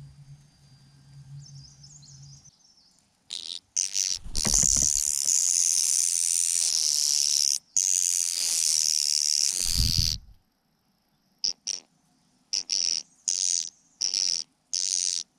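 Mynas giving harsh, hissing begging calls while competing for food: one long rasping stretch, then a run of short bursts. Two low thumps come through near the start of the calling and where the long stretch ends.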